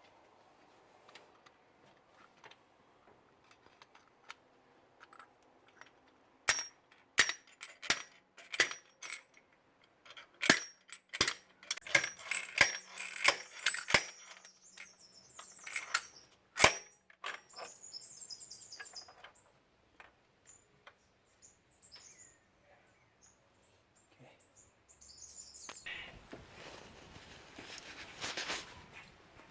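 Sharp metallic clicks and clinks of tools and metal parts being handled, a busy run of them for about ten seconds after a quiet start, followed by a rustling noise near the end.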